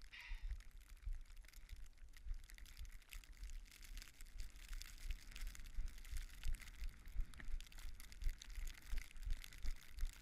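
Running footsteps crunching in snow in a steady rhythm of about two to three strides a second, with wind rumbling on the action-camera microphone.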